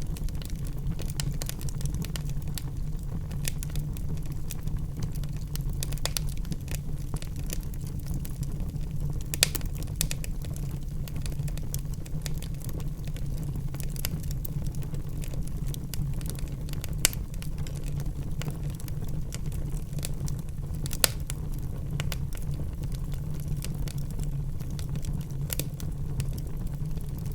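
Wood fire in a fireplace crackling, with many small snaps over a steady low rumble and three louder pops spread through.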